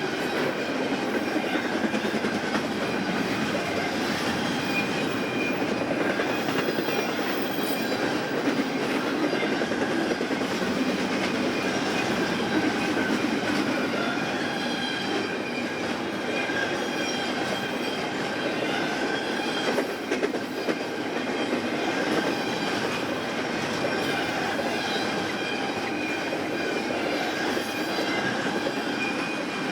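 BNSF intermodal freight train's cars rolling past: a steady rumble and clatter of wheels on the rails, with a thin wheel squeal running faintly through it.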